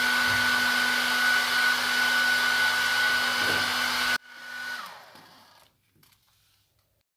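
Hair dryer blowing with a steady whine over its rushing air, then switched off about four seconds in; the motor winds down with a brief falling whine, and a few faint clicks follow.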